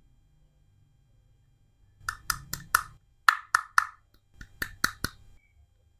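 A run of about ten sharp, hollow-sounding clicks in three quick groups, starting about two seconds in and ending about five seconds in.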